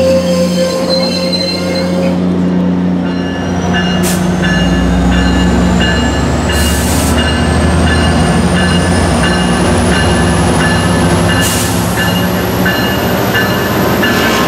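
Passenger train at the platform: a diesel locomotive running with a steady low drone while its bell rings in an even, repeated pattern, with a faint rising whine high above.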